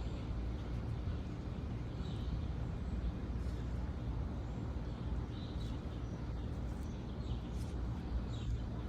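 Outdoor background: a steady low rumble, with faint short high chirps every second or two.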